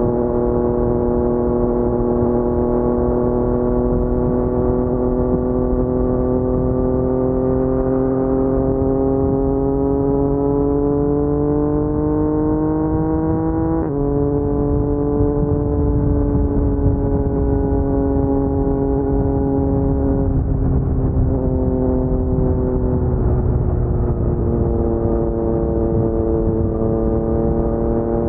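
Yamaha MT-09's crossplane three-cylinder engine running through an Akrapovic carbon full-system exhaust at low road speed. The engine note climbs slowly for about fourteen seconds, drops suddenly at an upshift, then holds fairly steady with a couple of small dips in pitch as the throttle eases.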